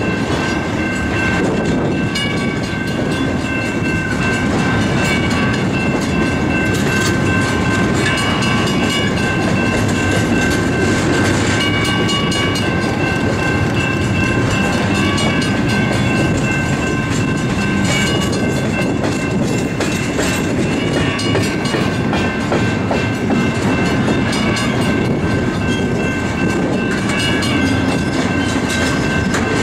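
Double-stack intermodal train of TTX well cars with 53-foot containers rolling slowly past: a steady rumble of steel wheels on rail with some clicking, and thin high tones that come and go.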